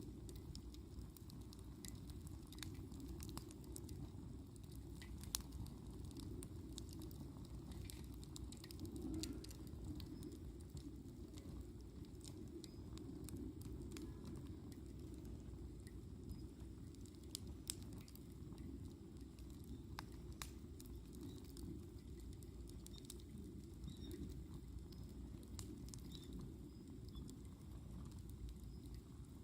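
Wood campfire crackling, with scattered sharp pops and clicks every second or so over a steady low rumble.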